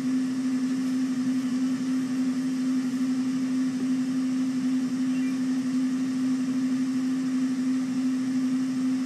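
A steady low hum holding one pitch, over a faint even hiss.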